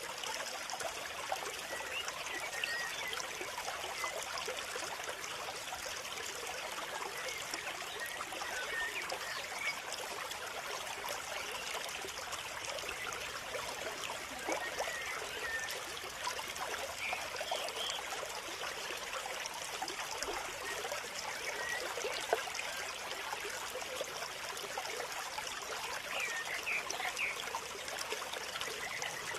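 Small stream of water trickling and babbling steadily.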